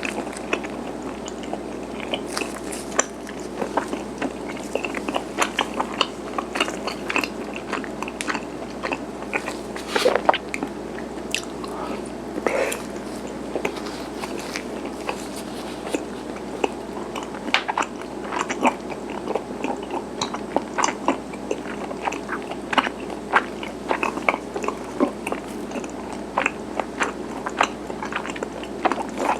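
Close-miked chewing of garaetteok (chewy Korean rice-cake sticks), with soft sticky mouth smacks and bites at irregular moments.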